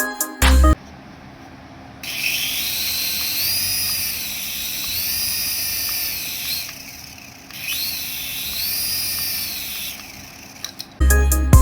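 Small electric motor of a radio-control toy whining, its pitch rising and falling repeatedly as it speeds up and slows down.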